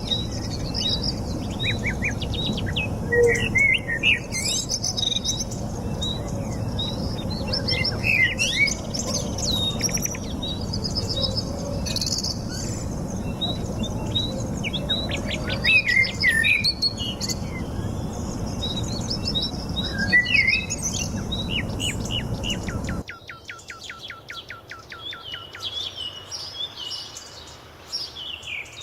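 Several birds chirping and whistling, many short overlapping calls over a steady low background rush. About 23 seconds in the background drops away and a fast, even trill of repeated notes sounds for about two seconds, then fainter chirps.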